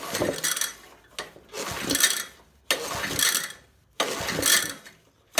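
Honda 200cc small engine being pull-started: the recoil starter is yanked four times in a row, about one pull every second and a half, the engine turning over without catching.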